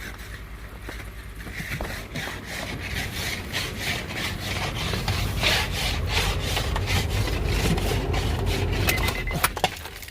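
Small hand-held ice scraper scraping snow and ice off a car window in quick repeated strokes, getting louder and faster in the second half, over a low rumble. The scraper is too small to clear the ice well.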